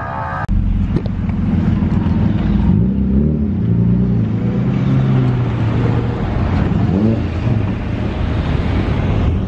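Car engines running in a line of slow-moving cars, with the revs rising and falling twice, about three seconds in and again about seven seconds in.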